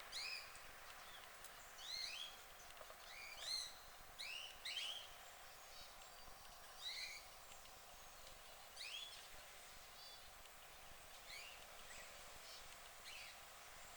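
Birds chirping: short, high, arched chirps, sometimes in quick pairs, coming irregularly every second or so over a faint steady hiss.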